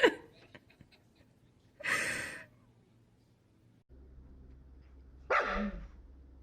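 A dog giving two short vocal sounds: a breathy huff about two seconds in, then a short bark with a falling pitch about five seconds in.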